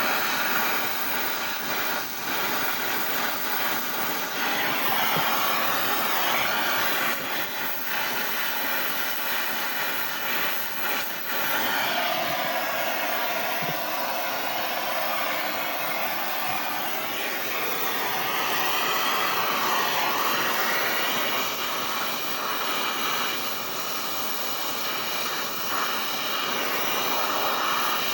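Brazing torch flame hissing steadily as the copper fitting of a new thermostatic expansion valve is brazed, its tone shifting now and then as the flame is moved.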